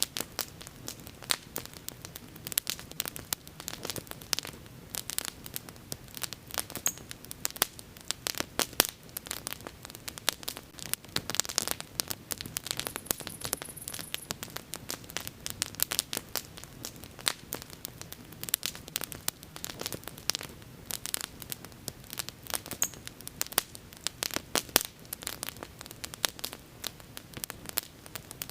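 Wood bonfire crackling: dense, irregular pops and snaps over a low, steady rumble of burning.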